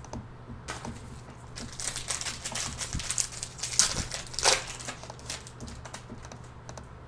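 Foil wrappers of 2020 Panini Prizm football card packs crinkling as they are opened and the cards handled, in a run of rustles that peak around the middle, over a steady low hum.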